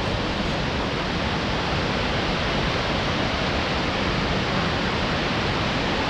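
Shifen Waterfall's falling water, a steady, even rush.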